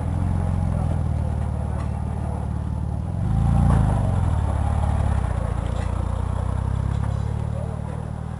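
Porsche 997 GT2's twin-turbo flat-six idling, with one short rev that rises and falls about three and a half seconds in.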